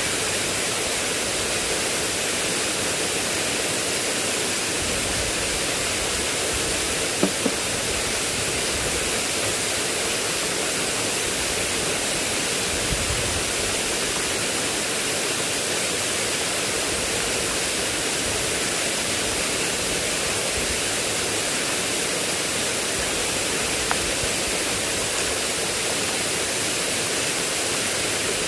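Heavy rain falling, a steady even hiss with no letup, and a couple of faint taps about seven seconds in.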